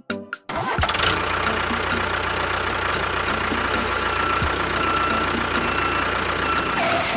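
An engine running steadily, starting abruptly about half a second in and cutting off suddenly near the end.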